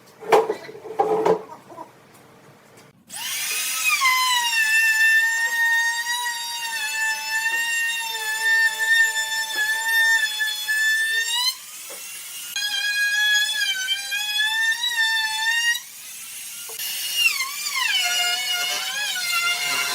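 An electric power tool's motor whining at high speed in three long runs, its pitch sagging and recovering as it takes load. A few knocks come just before it.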